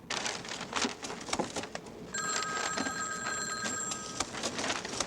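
A bell rings steadily for about two seconds, starting about two seconds in, over a busy clatter of clicks and knocks.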